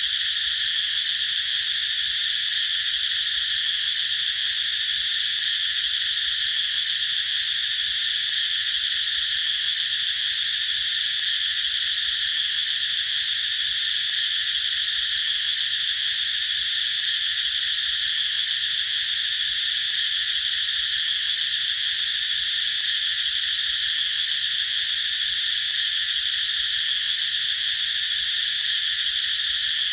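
Cicadas singing in a dense chorus, a steady, continuous high-pitched buzz that neither rises nor falls.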